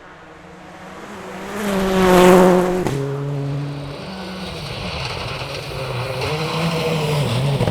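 Proton Iriz R5 rally car's turbocharged four-cylinder engine at full throttle, approaching and passing by. Its note swells to a peak about two seconds in and drops in pitch as it goes past, then keeps revving up and down through gear changes.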